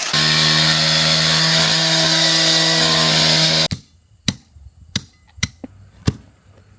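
A power tool runs steadily at full speed with a high hiss, then cuts off suddenly a little over halfway through. Four or five sharp knocks follow, spaced about half a second apart.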